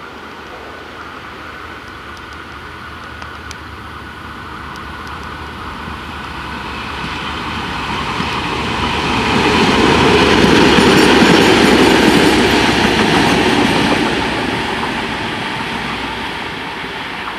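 2M62U two-section diesel locomotive, with two-stroke diesel engines, passing by on the rails. It grows louder to a peak about ten to thirteen seconds in, then fades.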